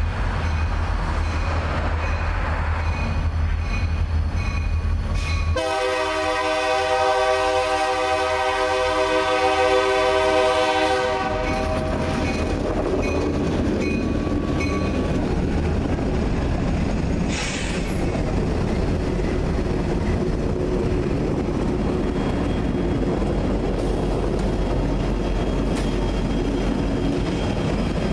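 Diesel locomotives of a coal train passing close by, with steady engine and rail rumble throughout. About six seconds in, the locomotive air horn sounds one long chord of several notes that lasts some five seconds. Past halfway there is a brief high squeal as the heavy train keeps rolling by.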